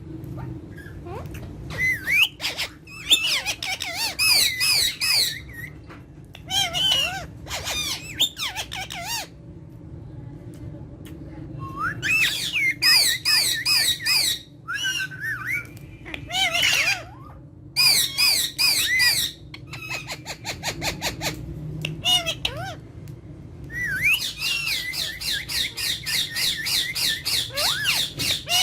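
Pet parakeets squawking in repeated bouts of sharp, rapid, warbling calls with short pauses between them. Near the end comes a long unbroken run of fast repeated squawks.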